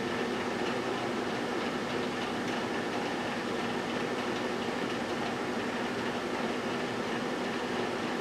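GE Dual Wave microwave oven running while heating, a steady even hum with fan noise.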